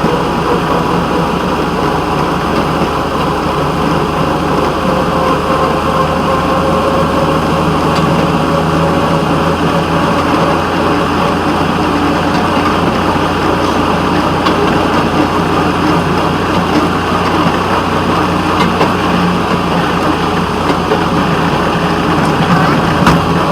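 Locomotive running steadily while hauling a passenger train: a continuous engine drone with no breaks or distinct events.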